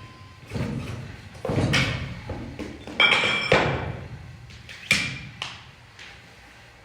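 Gym weights knocking and thudding on the floor and against each other: about six heavy impacts over a few seconds, one with a short metallic ring, echoing in a large room.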